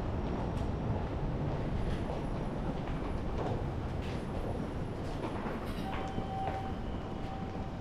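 Steady rumble of trains running at a busy railway station, with a faint steady tone coming in near the end.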